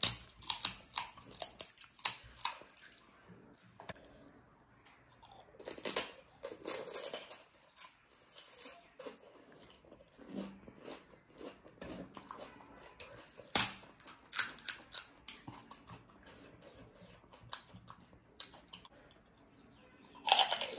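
Crunching and chewing of crisp panipuri shells filled with spiced water, in bursts of sharp crackles with quieter chewing between. A fresh puri goes into the mouth near the end with another burst of crunching.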